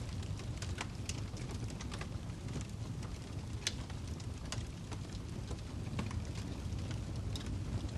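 Wood fire burning in a fireplace: a steady low rumble of flames with irregular sharp crackles and pops from the burning log, one pop standing out halfway through.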